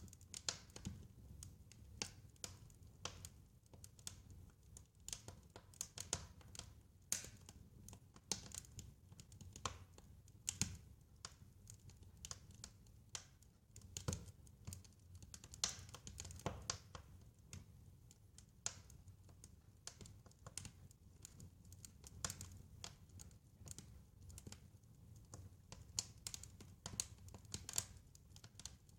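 Wood fire crackling: irregular sharp pops and snaps, several a second, over a soft low rumble.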